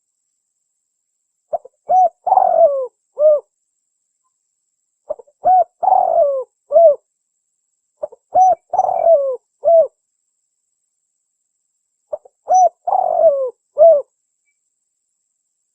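Spotted dove (tekukur) cooing its territorial call, used as a lure sound. Four phrases about three to four seconds apart, each a few short notes followed by a longer falling coo, with silence in between.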